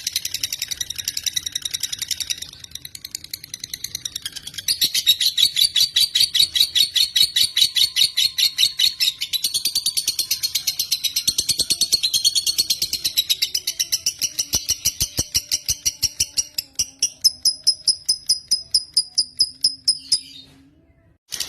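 Lovebird singing a long, fast run of sharp repeated chirps, a continuous chattering trill. It stops abruptly for about a second near the end.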